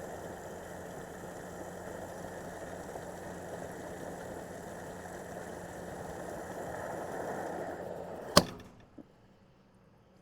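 Gas pump nozzle dispensing fuel into a tank: a steady rush of flowing fuel with a low pump hum. About eight seconds in, the nozzle clicks off sharply and the flow stops, with a small tick just after.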